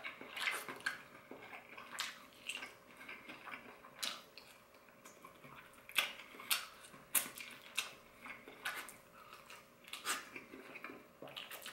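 A person chewing sauce-coated crispy fried chicken: irregular short clicks and wet mouth smacks, with a few louder ones around the middle.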